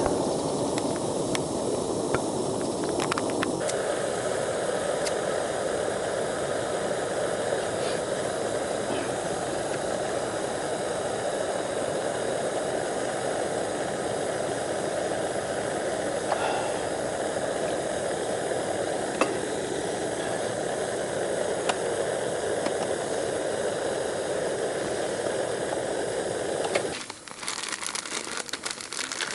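Camping stove burner running with a steady hiss under a cooking pot, shut off suddenly near the end.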